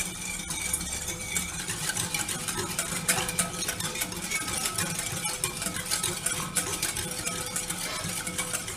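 Milk being stirred vigorously with a utensil to dissolve sugar, with a quick, continuous run of small clicks as it knocks against the sides of the container.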